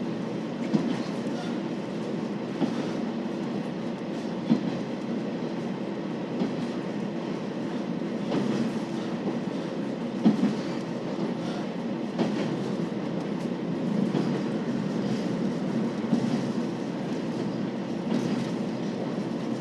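Running sound heard inside a KiHa 40 series (2000 subseries) diesel railcar: a steady low rumble, with the wheels clicking over rail joints about every two seconds.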